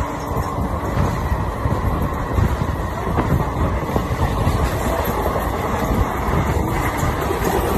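Steady rumble and clatter of a passenger train running at speed, heard from its open door, with occasional clacks of wheels over the track while another train runs on the next track.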